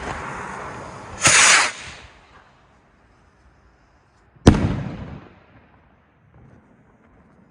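El Gato Volador K-20 Trueno firework: a hissing burn with a short, louder whoosh about a second in that fades as it climbs away, then about four and a half seconds in a single loud bang, its echo trailing off for about a second.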